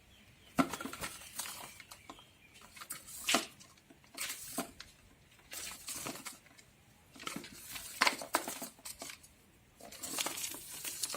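A lutino lovebird working at a paper roll: paper rustling and crinkling with small clicks, in about six short bouts separated by brief pauses.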